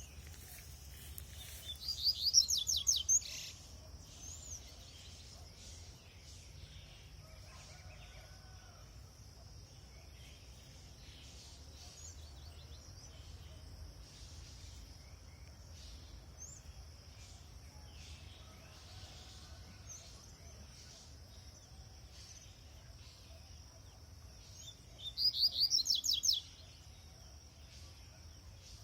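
Double-collared seedeater (coleiro) singing two short, fast song phrases of high sharp notes, about twenty seconds apart, over a steady high-pitched drone.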